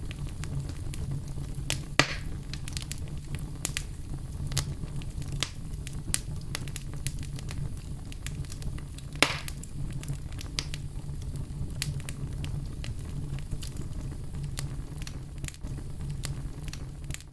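Fire in a fireplace crackling: a steady low rumble of flames under many small sharp crackles, with two louder pops about 2 seconds and 9 seconds in.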